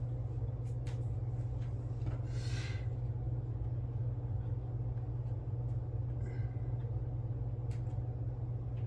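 A steady low hum runs under a few faint light clicks and two short soft rustles from small hand work.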